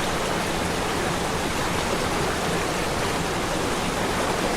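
Steady rushing of a waterfall, an even wash of falling water with no change.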